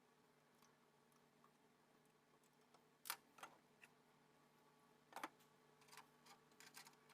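Near silence with a faint steady hum, broken by about eight sharp clicks or taps: three about three seconds in, then a louder one just after five seconds followed by several lighter ones.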